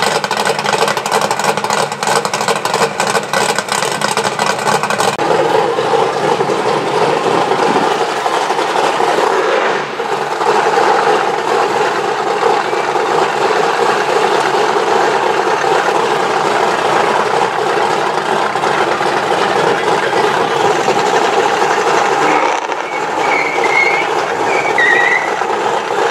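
Drag-racing car engines running loudly and steadily, with a fast, even pulsing idle for the first few seconds.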